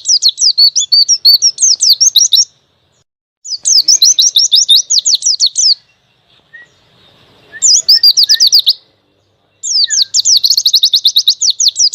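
White-eye (pleci) singing its wild-style 'ngalas' song as a masteran tutoring recording: rapid, high chattering trills delivered in four bursts of one to three seconds, separated by short pauses.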